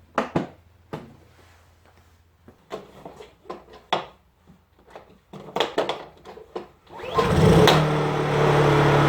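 Portable generator's small engine starting about seven seconds in and then running steadily, now that its clogged carburetor main jet has been cleaned. Before it starts there are scattered clicks and knocks of handling.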